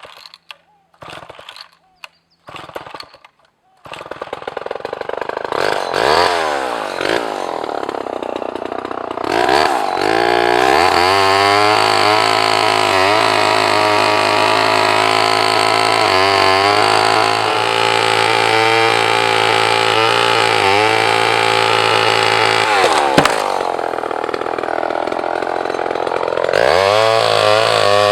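Vintage two-stroke chainsaw: a few short sputters in the first seconds, then it catches about four seconds in and revs up. It runs at high speed for the rest of the time, its note dipping briefly several times and sagging for a few seconds near the end before rising again.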